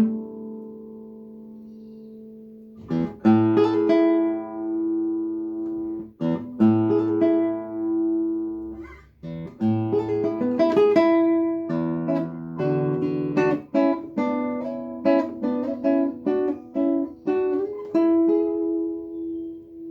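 Solo guitar music played on plucked strings. A chord rings and slowly fades for about three seconds; then plucked notes and chords resume in phrases, and a held chord rings near the end.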